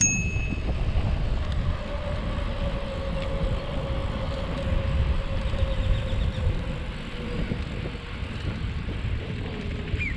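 Wind rumbling on the microphone and tyre noise from a bicycle riding along a path, with a faint steady hum that slowly falls in pitch through most of the stretch and a brief high ring at the very start.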